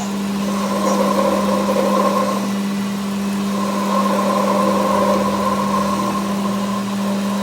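A machine running steadily with a constant hum, and a higher whirring that swells up twice and eases off.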